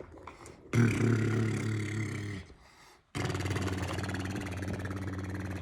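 Rumbling truck-engine noise for a toy trash truck driving away: a rough, growling rumble about a second in, a short break, then a longer steady rumble from about three seconds in.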